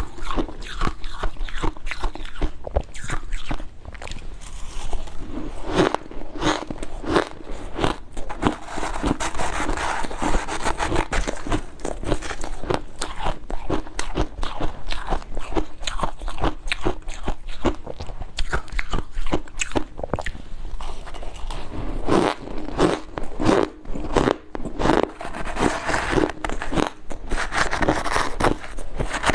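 Soft, powdery ice being bitten and chewed close to the microphone: a dense, uneven run of crunches, thickest about a third of the way in and again near the end.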